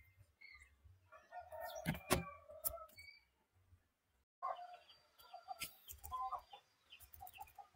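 Faint bird calls in the background, short clucks repeated several times, with a few sharp clicks and a brief dropout about four seconds in.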